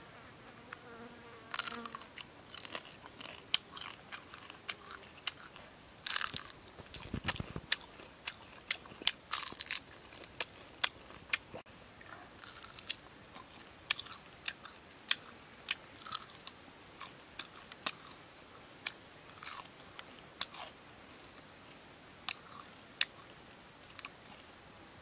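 Close-up crunching and chewing of a grilled centipede: sharp, irregular crisp crunches, sometimes several a second, with short pauses between. A faint steady high insect buzz runs behind, and there is one low thump about seven seconds in.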